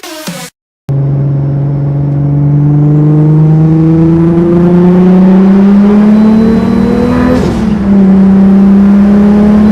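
Turbocharged RB25DET straight-six of a Nissan Skyline R33 GTS-t, running a Garrett GTX3076 turbo, pulling hard under full acceleration, its pitch climbing steadily through the revs. About seven and a half seconds in, a quick upshift drops the pitch and the engine pulls again. The sound cuts out for a moment just before the pull begins.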